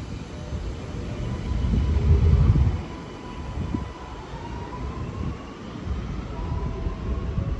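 Sydney Metro train (Alstom Metropolis) running through the station: a low rumble that swells to its loudest about two seconds in, with an electric motor whine that rises in pitch in the second half.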